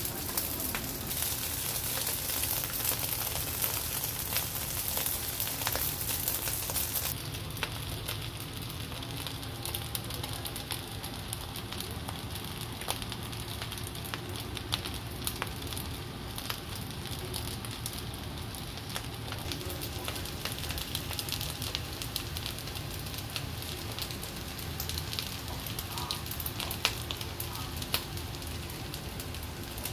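Beef, zucchini and egg fried rice sizzling and crackling in a hot wok. The hiss is stronger for the first seven seconds or so, then settles to a softer, steady sizzle with scattered pops.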